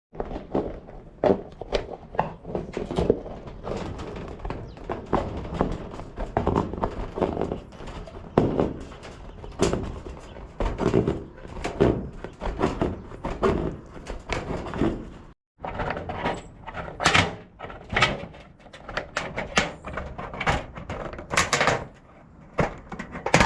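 Irregular knocks, thuds and clatter from hand work on a wooden beehive roof and its sheet of roofing metal. The sound cuts out briefly about fifteen seconds in.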